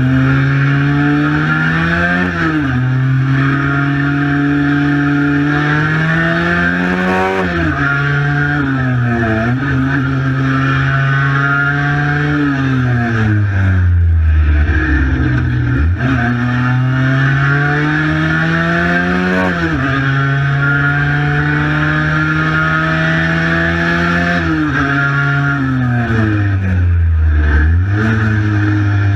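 Cagiva Mito 125's single-cylinder two-stroke engine pulling hard, its pitch climbing through each gear and dropping sharply at each shift. About halfway it falls away for a couple of seconds as the bike slows, then climbs again.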